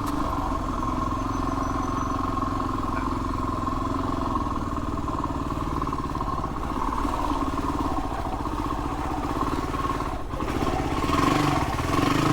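Dirt bike engine running steadily, then revving up slightly louder near the end.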